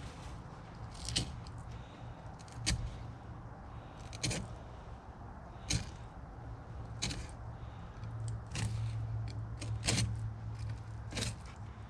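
Fillet knife cutting along the inside of an alligator gar's hard, armoured skin, with sharp clicks and scrapes every second or so as the blade works against the scales. A steady low hum runs underneath.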